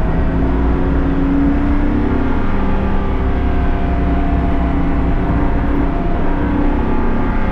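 BMW-powered race car's engine running hard on track, its revs climbing and then dropping back several times.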